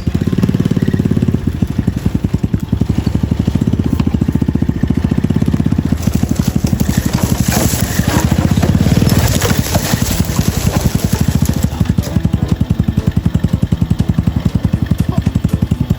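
Small vehicle engine running steadily close by, its fast, even firing pulses unbroken, with a noisier, hissing stretch near the middle.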